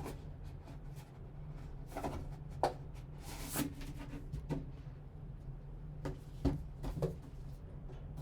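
Hands opening a trading-card box and handling its cardboard and packaging: scattered light taps and clicks, with a brief sliding swish about three and a half seconds in, over a steady low hum.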